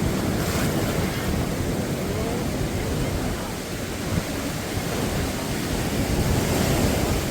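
Rough surf washing onto a sandy beach, a steady roar of breaking waves, with wind buffeting the microphone.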